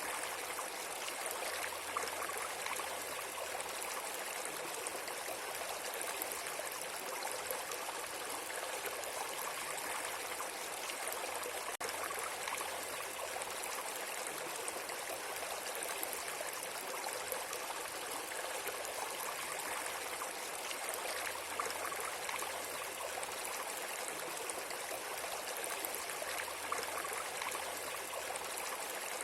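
Steady rushing of flowing water, like a stream, an even hiss with no breaks or distinct events.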